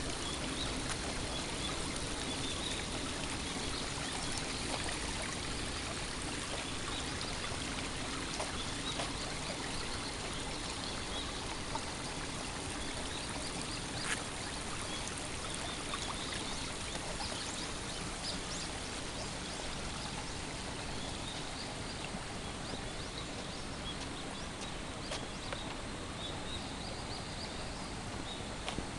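Dense early-morning cicada chorus, a steady even hiss, with short bird calls scattered through it.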